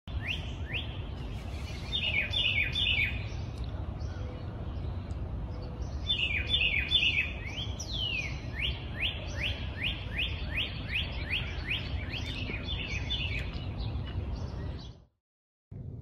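A songbird singing clear whistled notes in fast series, mostly quick upward slurs with a few falling ones, over a steady low rumble. Everything cuts off suddenly near the end.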